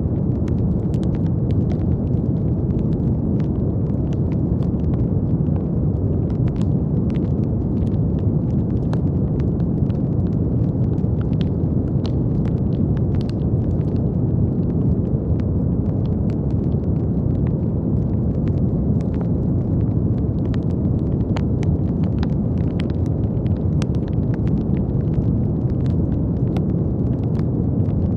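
Steady brown noise, a deep, even rushing sound weighted to the low end, with faint scattered crackles over it.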